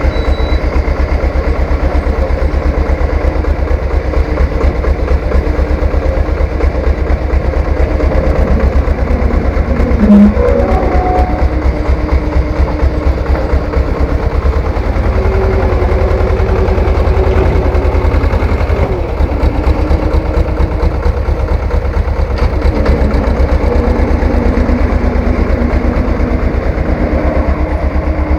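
Three-wheeled farm tractor's engine running steadily with an even, rapid low beat. About ten seconds in there is a brief louder, higher-pitched sound.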